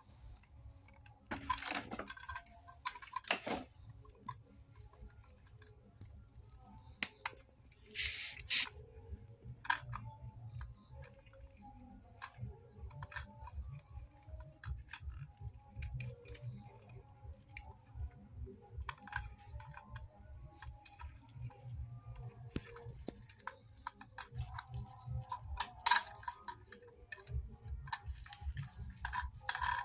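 Irregular small clicks and knocks, as of small hard objects being handled, over a low steady rumble, with a few short hissing bursts.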